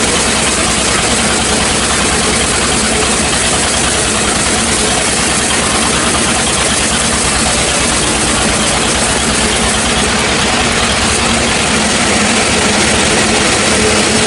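Engine-driven sawmill running steadily, its engine making a fast, even pulsing under a constant hiss.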